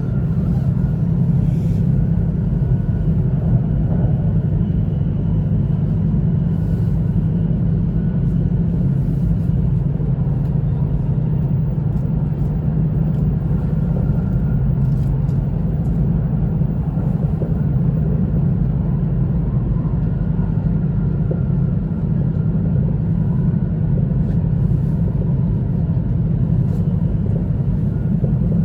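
Steady low rumble of an E2-series Shinkansen train running along the track, heard from inside the passenger cabin.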